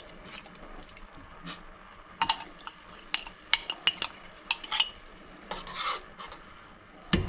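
A spoon scraping and tapping inside a nearly empty jar of bouillon paste, with scattered clicks and short scrapes. Just before the end, a fast run of loud clinks begins, several a second.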